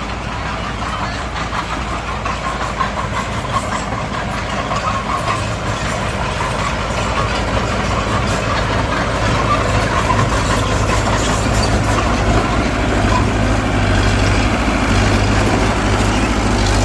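Diesel engine of earthmoving machinery running steadily with a deep low hum, growing gradually louder over the seconds.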